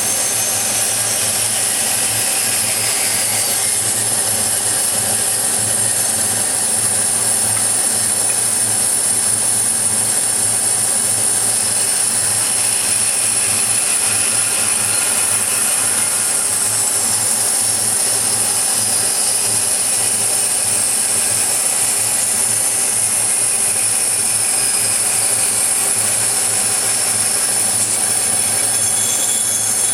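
Scroll saw cutting 3 mm brass plate: a steady high-pitched metallic squeal from the blade in the brass, its tones drifting slowly up and down over a constant low motor hum.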